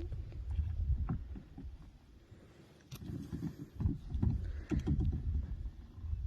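Kayak hull and paddle knocking and scraping irregularly as a kayak is launched. A low wind rumble is on the microphone for the first couple of seconds.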